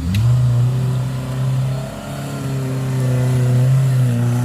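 Small off-road 4x4's engine revved hard, climbing quickly at the start and then held at steady high revs with a brief sag about two seconds in.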